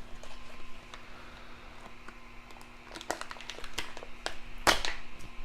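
Light clicks and taps of hands working at a 3D printer, with one louder knock near the end, over a faint steady hum.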